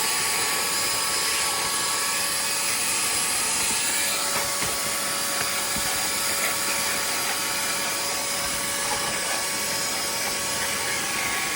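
Vacuum cleaner running steadily, a rush of air with a constant whine over it, used to vacuum a car's interior.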